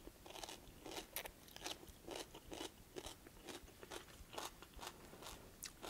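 A person chewing a mouthful of crunchy kohlrabi-noodle stir-fry: a faint, steady run of crisp crunches, roughly three a second.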